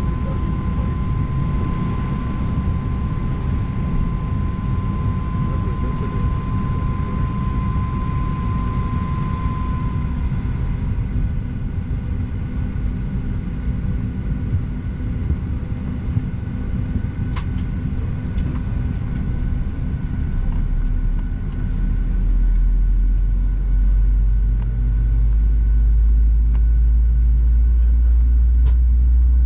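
Cabin noise of a Boeing 737-800 on the ground with its engines running: a steady low rumble, with a thin steady whine that stops about a third of the way in. The rumble grows noticeably louder and deeper in two steps over the last third.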